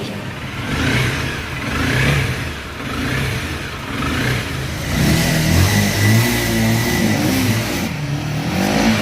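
Motorcycle engine running and being revved, its pitch rising and falling with the throttle.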